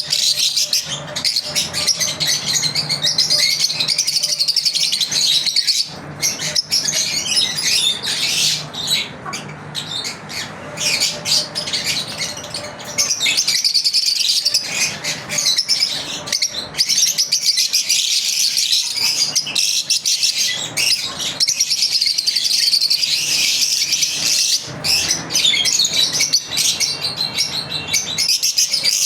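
Several lovebirds chirping together in rapid, high-pitched, overlapping calls that run on almost without a break.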